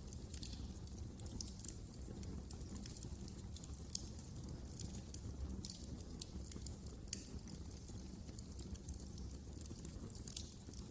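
Wood fire crackling in a fireplace: many irregular sharp pops and snaps over a low, steady rumble of the burning logs.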